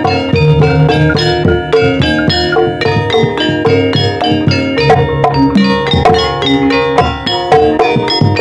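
Javanese gamelan music, a gending opening piece in ebeg style: rapid, evenly struck bronze metallophone notes over lower drum strokes.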